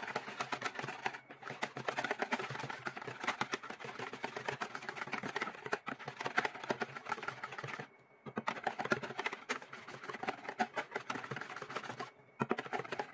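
Wire whisk beating runny kutsinta batter in a plastic bowl: fast, steady clicking and scraping of the wires against the bowl, with a few short pauses, around eight seconds in and just before the end.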